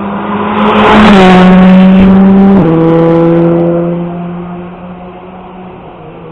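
An S1600 rally car with a high-revving 1.6-litre naturally aspirated four-cylinder engine passes at full throttle, its engine note dropping a little as it goes by. About two and a half seconds in it changes up a gear with a sudden drop in pitch, then it fades away as it drives off.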